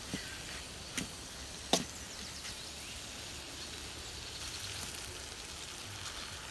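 Three sharp knocks, under a second apart, in the first two seconds, over a steady low hiss.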